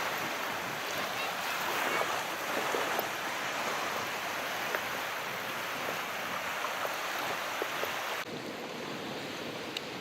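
Calm sea: a steady wash of surf dotted with small crackling splashes. About eight seconds in it cuts suddenly to a quieter, duller wash.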